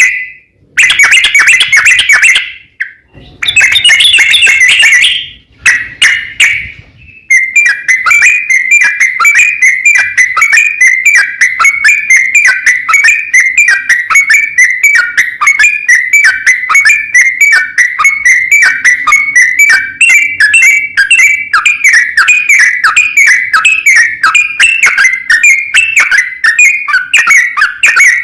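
Yellow-vented bulbul (trucukan) song, loud: a couple of short bursts of notes, then from about seven seconds on a long unbroken run of rapid chattering notes, the long 'ropel' song used as a lure to make other trucukan answer.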